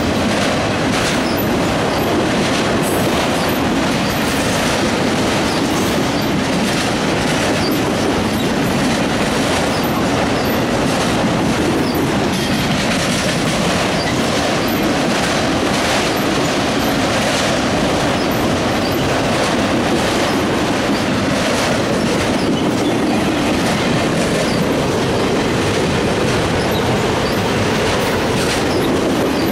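Autorack freight train rolling past close by: a steady rumble of steel wheels on rail, with repeated clickety-clack as the wheels cross rail joints.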